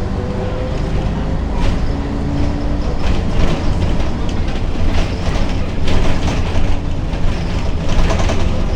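Ikarus 280 articulated city bus on the move: the diesel engine's steady low drone, with the body clattering and rattling, busier from about a second and a half in.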